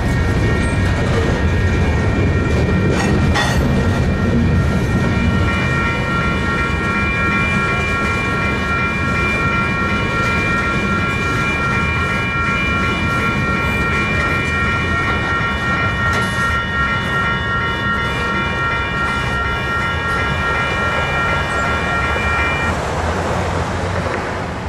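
Freight train rolling by, its wheels rumbling on the rails, with a steady high squeal of several tones running through most of it that stops about two seconds before the end.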